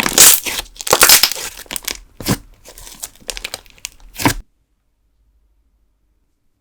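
Thick candle slime, soy wax in a wood-glue and school-glue base, being squeezed and stretched by hand, giving dense crackling and popping. It cuts off to silence about four and a half seconds in.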